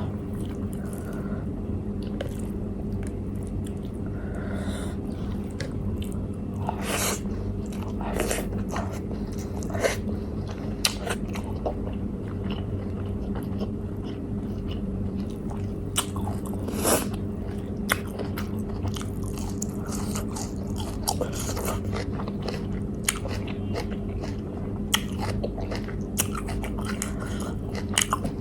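Close-up eating sounds: chewing and biting with scattered sharp crunches and mouth clicks, over a steady low hum.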